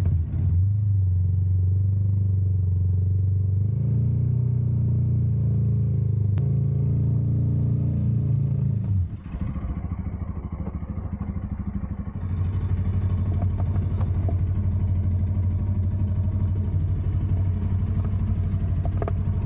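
Motorcycle engine running, its note stepping up about four seconds in, dropping away about nine seconds in and picking up again about three seconds later.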